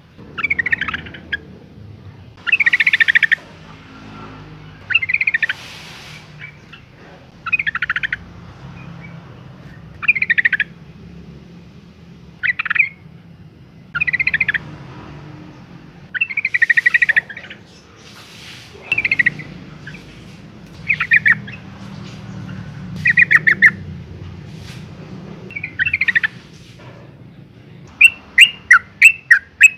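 Yellow-vented bulbul calling: short phrases of quick chattering notes repeated about every two seconds, breaking into a faster, louder run of clipped notes near the end. Presented as a female's call used to lure males into song.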